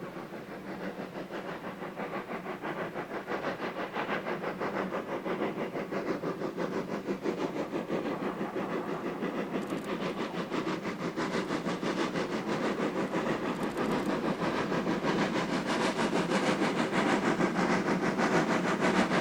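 Steam locomotive working a train, its exhaust beating in a rapid even rhythm and growing steadily louder as it approaches.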